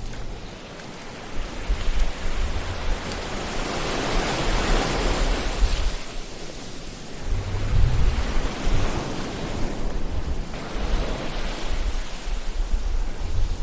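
Ocean waves breaking and washing ashore in slow swells, the wash building to a peak about four to five seconds in and again later, with a low rumble underneath.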